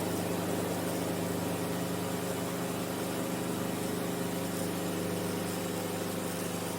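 Enstrom F28F helicopter's piston engine and rotors running steadily in a hover-taxi, a constant drone with several held tones.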